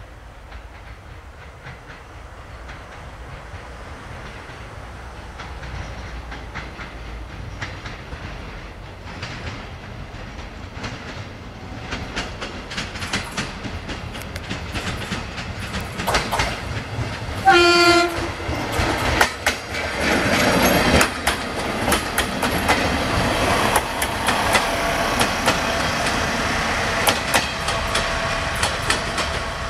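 A diesel-hauled passenger train approaching and passing, growing steadily louder, with a short horn blast about halfway through. Then the locomotive runs by loudly and the coaches' wheels clatter over the rail joints.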